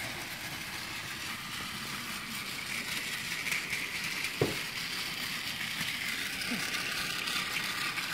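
Two battery-powered Plarail toy trains running on plastic track: a steady whirring of their small motors and gears with wheel rattle, and a single click about four and a half seconds in.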